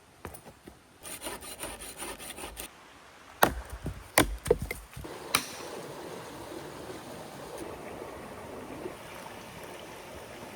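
Wood being sawn or scraped in quick strokes, followed by a handful of sharp wooden knocks; after about five seconds only a steady rushing remains, the sound of the river.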